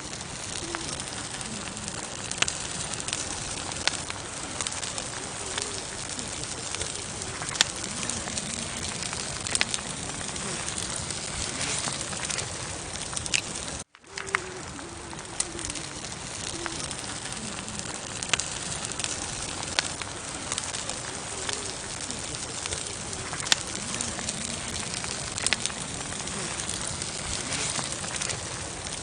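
Campfire burning with a steady hiss and frequent sharp crackles and pops of burning wood; the sound cuts out for an instant about halfway through.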